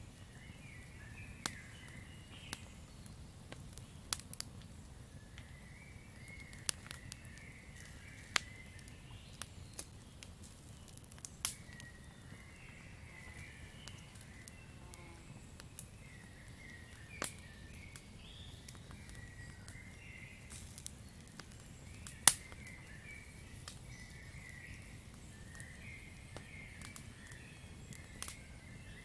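Wood campfire crackling: irregular sharp pops and snaps over a low steady rush of flame, with one loud pop about three-quarters of the way through. Faint chirping from the night forest runs behind it.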